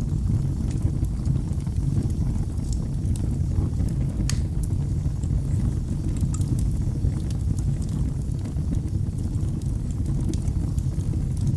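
Fire burning in a fireplace: a steady low rumble of flames with scattered sharp crackles and pops, one louder pop about four seconds in.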